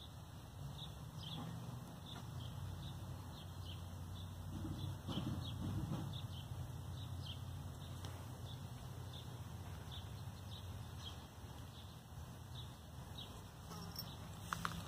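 A small bird chirping over and over, short high chirps about two a second, over a steady low background rumble; a few sharp clicks near the end.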